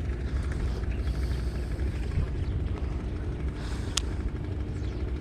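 Steady low rumble with a faint steady hum, typical of a boat's motor running on the water, and a single sharp click about four seconds in.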